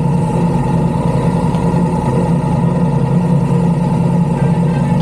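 Motorcycle engine running steadily at an even speed, with no revving.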